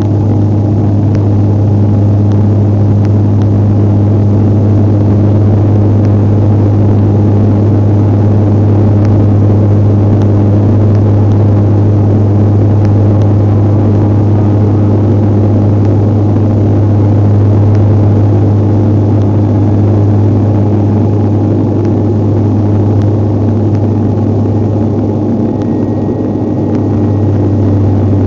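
A Bombardier airliner's engines running at takeoff power, heard from inside the cabin: a loud, steady low drone with a hum above it.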